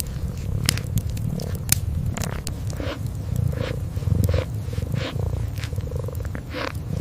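Kitten purring, a continuous low rumble, with sharp crackles and pops from a wood fire scattered throughout.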